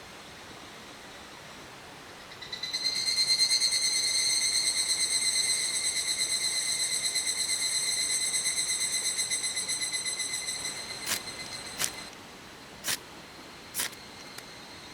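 An insect singing close by: a loud, finely pulsed buzzing trill that starts about two and a half seconds in and holds for about eight seconds, then breaks into a few short chirps near the end, over a steady hiss.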